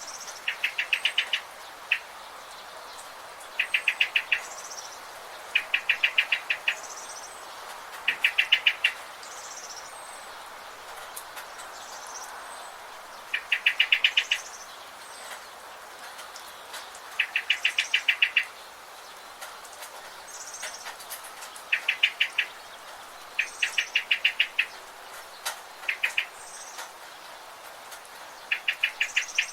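Forest birds singing: a loud trill of rapid, evenly spaced notes, about a second long, repeats every two to four seconds, with fainter short high chirps between, over a steady background hiss.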